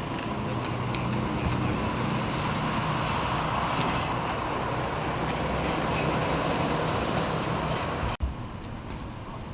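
A vehicle engine running steadily with a low hum, amid street noise. About eight seconds in the sound cuts off abruptly and drops to a quieter background.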